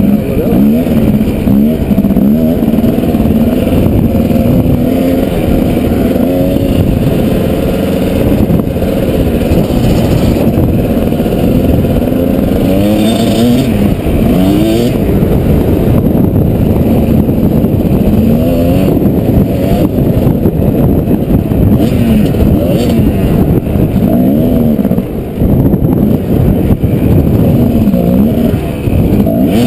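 Kawasaki KDX220's two-stroke single-cylinder engine being ridden hard, its pitch rising and falling over and over as the throttle opens and closes. The engine briefly drops off about 25 seconds in and again near the end.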